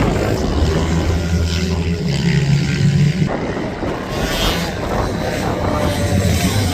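Racing minibike engines running on the track: a steady engine drone that breaks off about three seconds in and returns near the end, over a constant wash of noise.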